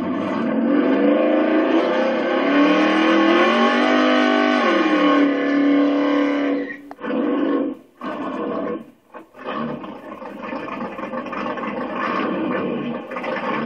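1967 Chevrolet Camaro's engine revving hard during a burnout and donut: the pitch climbs over the first few seconds, holds high, then falls away about five seconds in. The engine then revs again, with the sound dropping out briefly a few times near the middle.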